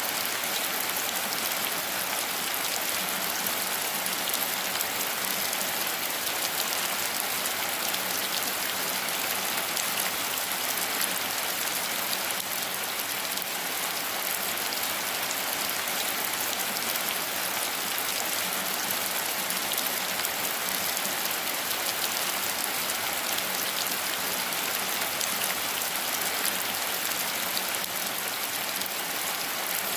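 Steady rain falling, a dense, even patter of drops that holds at the same level throughout with no thunder.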